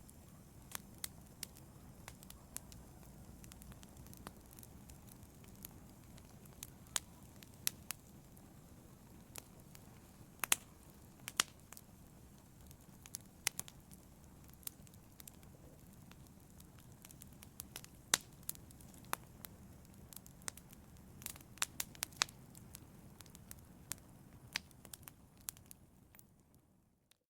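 Wood fire burning in a fireplace: irregular sharp crackles and pops over a low, steady rumble of flames, fading out near the end.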